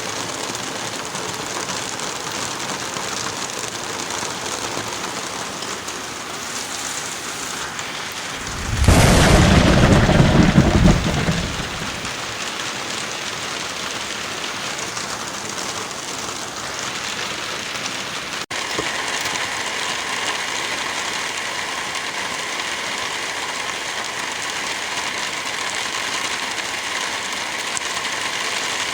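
Steady heavy rain, with a loud peal of thunder about nine seconds in that lasts a couple of seconds and dies away. About two-thirds of the way through the rain cuts out for an instant and comes back with a slightly different sound.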